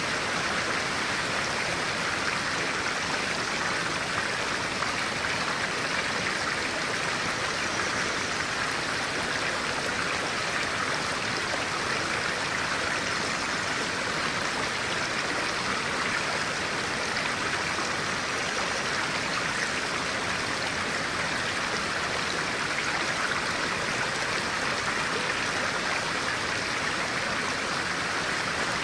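Stream of clear water running steadily, a constant, even rush of flowing water.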